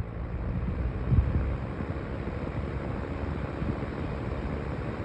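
Small electric fan heater running: its motor and fan have just spun up and settle into a steady whir, with a brief low bump about a second in. It is the heater shown as the smooth-sounding one.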